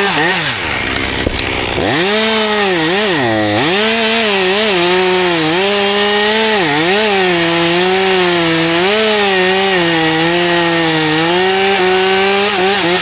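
Chainsaw running at high revs while cutting through cherry wood, its pitch dipping again and again as the chain loads up in the cut and then recovering. It drops off suddenly at the very end.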